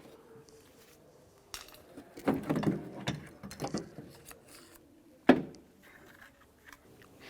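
Scattered small clicks and rattles of the door lock linkage rods and plastic clips being worked free inside a car door, with one sharp knock about five seconds in.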